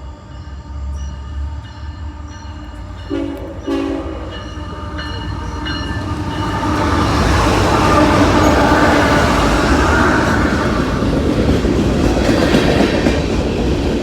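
CSX freight train: a short blast of its horn about three seconds in, then the train arriving and running past close by, its rumble and wheel clatter building to a loud, steady pass.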